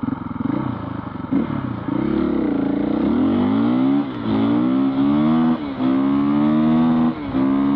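Husqvarna FE501 single-cylinder four-stroke dirt bike engine accelerating hard through the gears. The revs climb and fall back sharply about four, five and a half and seven seconds in, as it upshifts three times.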